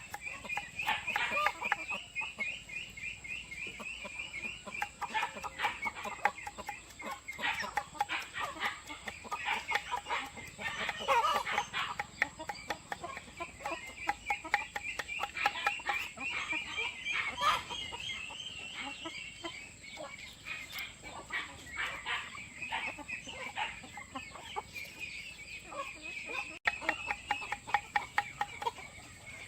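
A flock of hens clucking and calling continuously, in quick runs of repeated notes, with many short clicks and taps among the calls.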